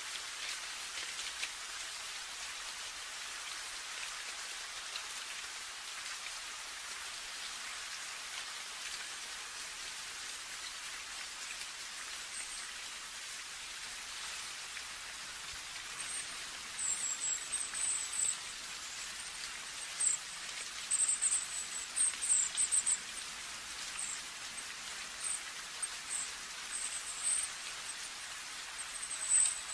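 Steady rain falling, an even hiss of drops. From about halfway through, a very high-pitched chirping comes and goes in short clusters over the rain.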